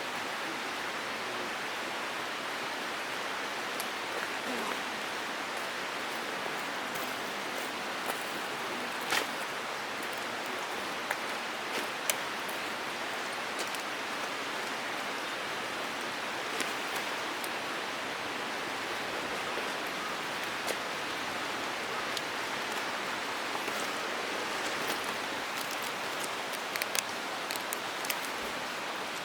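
Wood campfire crackling: scattered sharp pops and snaps over a steady hiss.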